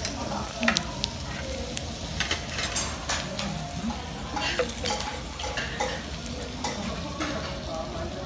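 Sliced pork and kimchi sizzling on a hot tabletop griddle, a steady frying hiss broken by many short metal clicks and clinks of utensils and dishes.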